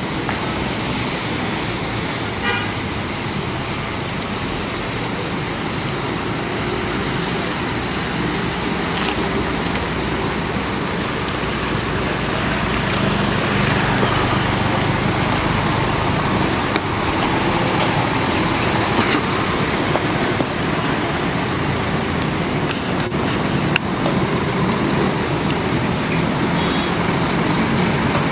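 Road vehicle engines running with steady road noise, slowly growing louder partway through, with a short high beep about two and a half seconds in.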